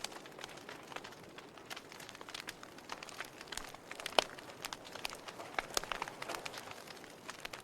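Fire in a fireplace crackling, with irregular sharp pops and snaps over a soft hiss and one louder pop about four seconds in.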